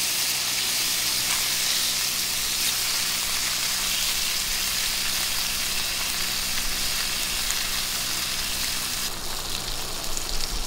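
Eel fillets sizzling steadily in a hot grill pan. The sizzle changes character about nine seconds in.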